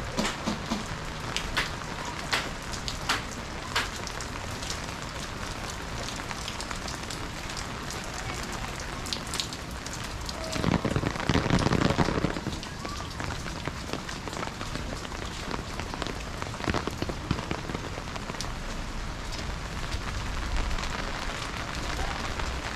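Steady rain with many sharp drop taps close by. About ten seconds in, a louder rushing swell builds and fades over two seconds.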